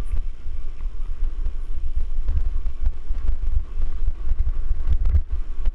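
Wind buffeting the microphone of a camera on a moving mountain bike: a loud, steady low rumble, with a few sharp clicks and knocks from the bike rattling over the trail, one of them about five seconds in.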